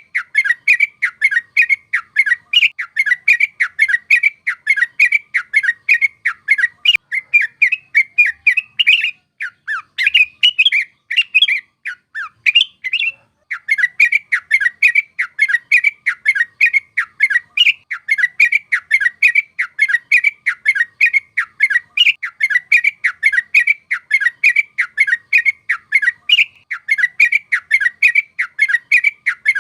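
Yellow-vented bulbul (trucuk) singing a long, rapid run of bubbly chattering notes, several a second, breaking off briefly about 13 seconds in before carrying on.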